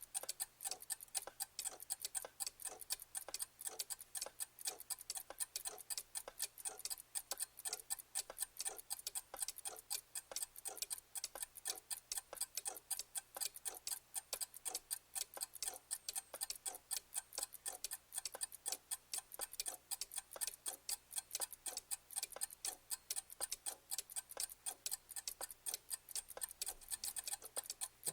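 Clock ticking steadily, with quick, even ticks several times a second.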